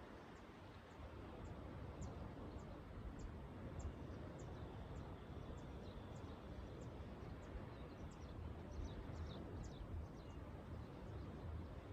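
A small bird chirping faintly over and over, short high notes about every half second that come faster near the end, over a steady low outdoor rumble.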